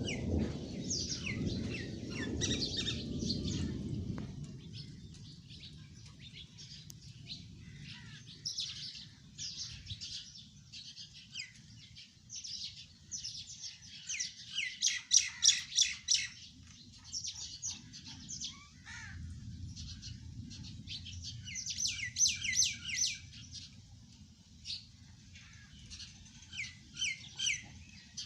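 Skylark nestlings chirping in repeated bursts of rapid, short, high chirps. A low rumble underlies the first few seconds.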